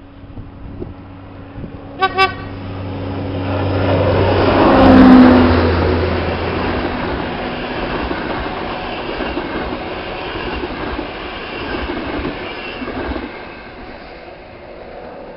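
ADtranz diesel locomotive on an intercity train giving two short horn toots, then passing close by. Its engine drone peaks and drops in pitch as it goes past, followed by the rumble and clatter of the coaches fading away.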